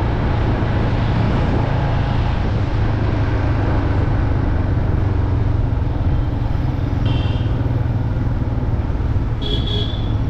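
Motorcycle riding along at a steady speed, its engine a constant low hum under wind and road noise. Two short high-pitched beeps cut in, one about seven seconds in and one near the end.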